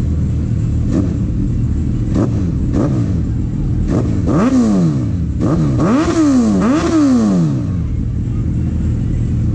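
Sport motorcycle engines idling, with one blipped through a series of short revs. The revs are small at first, then three big ones come close together from about four to seven seconds in, each rising and dropping back to idle.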